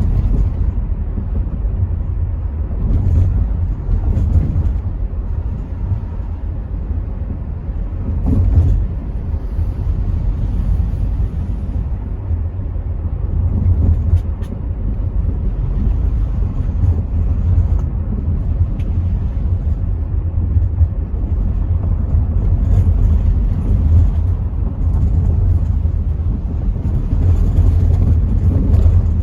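Interior sound of a Rover 75 V6 estate on the move: a steady low rumble of road and wind noise coming in through partly open windows, with the engine underneath and a few brief knocks from the car going over the road surface.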